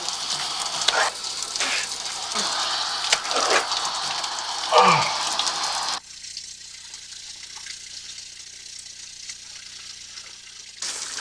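Shower spray running, with a few short falling vocal sounds over it; about six seconds in the water noise cuts off abruptly, leaving a much quieter background.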